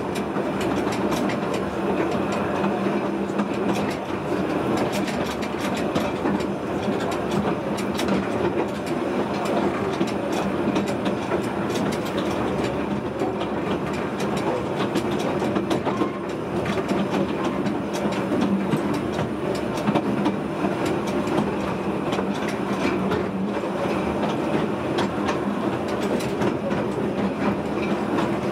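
Narrow-gauge steam train running steadily, heard from the open brake compartment of the carriage behind the locomotive: a constant rumble of wheels on the track with frequent clicks over the rail joints.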